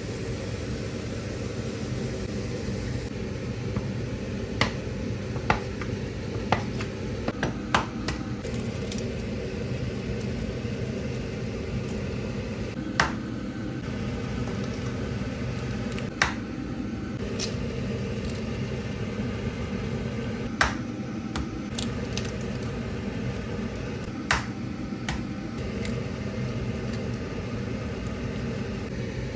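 Kitchen utensils and dishes clinking and tapping, about a dozen sharp separate clicks, over a steady low hum.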